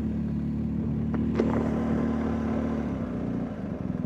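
BMW R1250GS Adventure's boxer-twin engine running at low speed, then dropping in pitch about three seconds in as the bike eases off, leaving a low pulsing beat. A short sharp click about one and a half seconds in.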